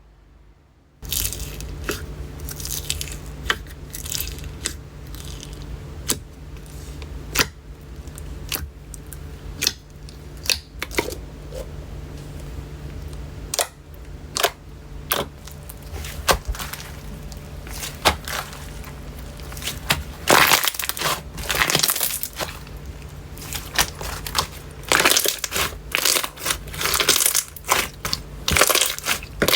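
Slime being squeezed and worked by hand, giving sharp, sticky clicking pops with denser crackling stretches about two-thirds of the way through and near the end.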